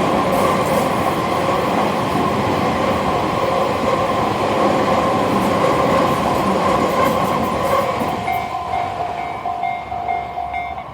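Tobu Isesaki Line train running past a level crossing, wheels clattering on the rails. The train noise fades near the end, and a crossing alarm's repeating tone comes through.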